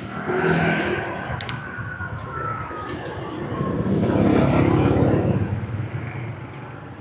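Motorbike traffic: small scooter and motorbike engines running and passing close. The engine noise swells briefly about half a second in, and again, louder and longer, around four to five seconds in.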